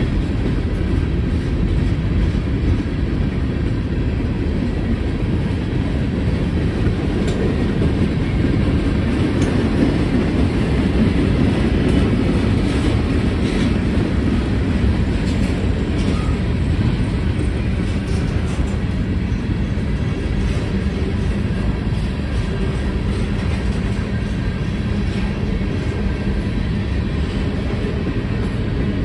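Freight cars of a long CSX manifest train rolling past: a steady, loud rumble of steel wheels on the rails, with scattered clicks as the wheels pass over the rail joints.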